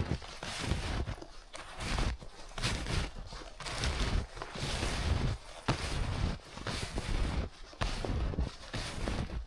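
Snowshoes crunching through deep fresh snow in a steady walking rhythm, about one to two steps a second.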